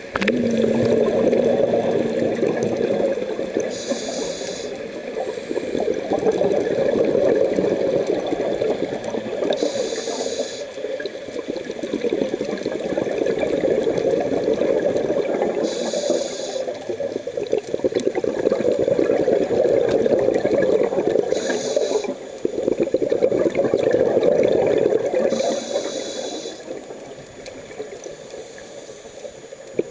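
Scuba diver breathing through a regulator: a short hiss of inhalation about every six seconds, five times, each followed by the bubbling rumble of exhaled air.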